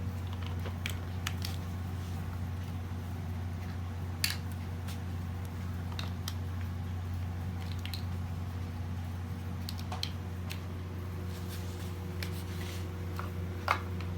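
Scattered small clicks and knocks of plastic toys being handled, a toy truck and building blocks, over a steady low hum.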